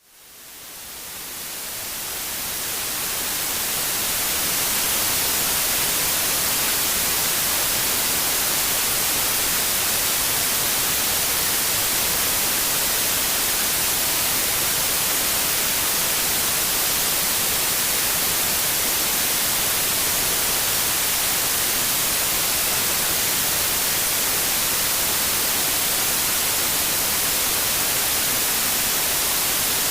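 Steady white noise hiss, even across the range and brightest at the top. It fades in from a momentary dip to silence over the first four seconds or so, then holds level.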